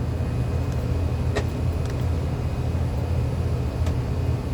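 Steady low mechanical hum, with two faint clicks about a second and a half and four seconds in.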